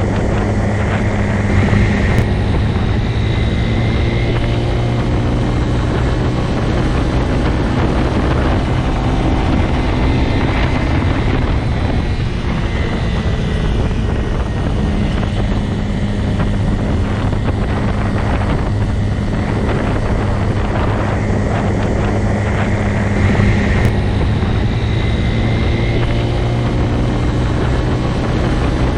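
Motorcycle engine running steadily, a continuous low drone whose loudness barely changes.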